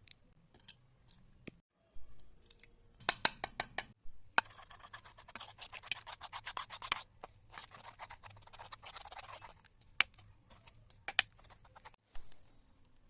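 Slime being worked by hand: a quick run of sharp clicks about three seconds in, several seconds of dense crackling, and two louder single clicks near the end.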